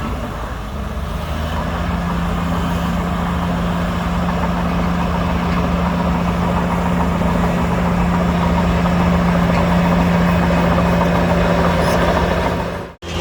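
Heavy diesel engine of earthmoving machinery running steadily, its low note settling in about a second and a half in and slowly growing louder. The sound cuts out abruptly near the end.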